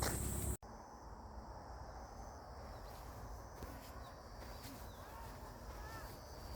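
Faint outdoor ambience: a low rumble with a thin steady high insect-like tone and a few short bird chirps near the end. A louder burst of noise cuts off abruptly about half a second in.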